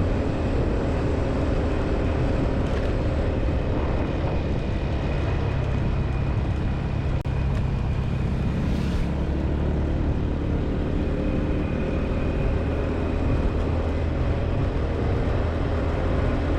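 Motorbike engine running at a steady speed while riding, with a steady rush of road and air noise.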